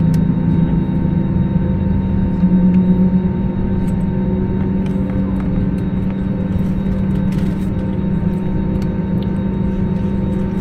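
Steady hum of an Airbus A320neo's engines and air systems heard inside the passenger cabin, with a few light clicks.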